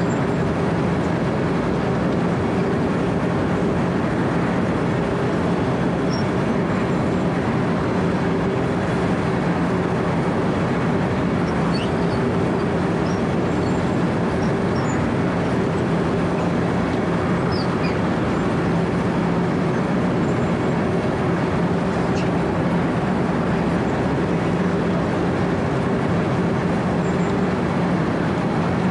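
Wirtgen W 120 CFi cold milling machine running steadily, heard from the operator's platform. A constant diesel drone with two steady hum tones over dense mechanical noise, unchanging throughout.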